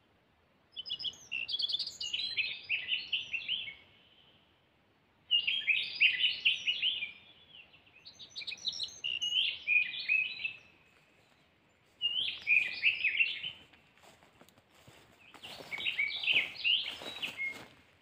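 Little bunting singing: five short twittering song phrases of quick high notes, each two to three seconds long, repeated every few seconds. Some rustling under the last phrase.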